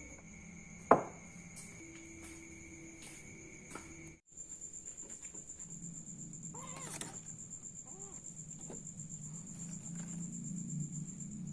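Steady high-pitched drone of crickets, with one sharp click about a second in. After a cut, a cat meows twice, short and faint.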